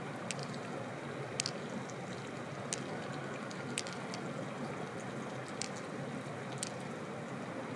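Steady rushing noise, like running water, with a sharp click about every one to two seconds.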